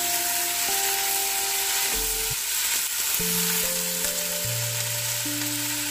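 Sliced vegetables sizzling in hot ghee in a nonstick kadai as they are tossed with a spatula: a steady frying hiss. Soft background music of slow, held notes plays underneath.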